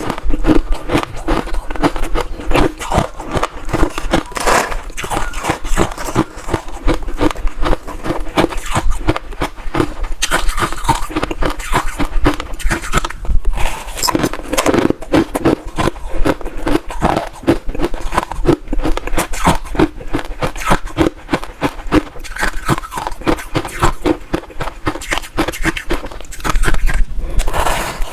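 Ice being bitten and chewed close to the microphone: a dense, continuous run of crunches and crackles.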